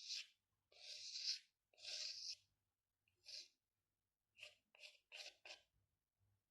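Drawing strokes scratching on paper: three longer strokes, a single one, then four quick short strokes.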